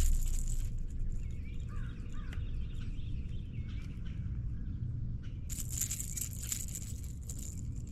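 A bird calling a few short, harsh calls about a second or two in, over a steady low rumble; a stretch of hiss comes in for about two seconds near the end.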